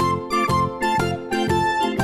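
Background music: a bouncy children's instrumental tune on keyboard with a steady beat.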